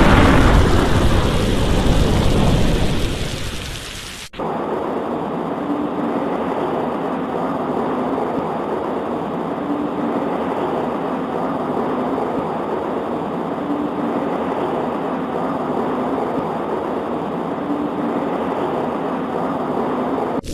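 A thunderclap's loud low rumble dying away over about four seconds, then, after an abrupt cut, steady heavy rain.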